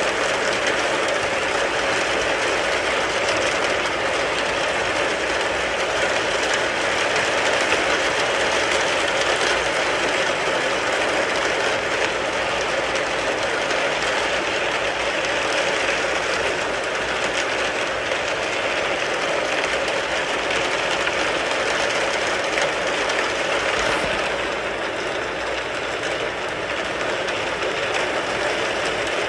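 Rain falling on a car's roof and windows: a steady, dense patter, easing slightly near the end.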